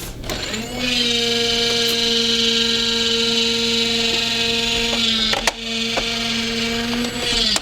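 Small electric motor of a toy garbage truck whining steadily as it works the lift arm that dumps the bin. It spins up about half a second in and winds down near the end, with a sharp click about five and a half seconds in.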